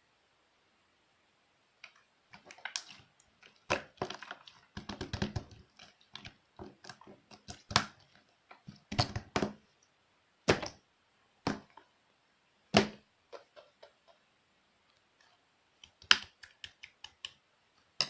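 Glitter slime being pressed and poked by hand, starting about two seconds in and making irregular clicks and pops, with a handful of louder snaps.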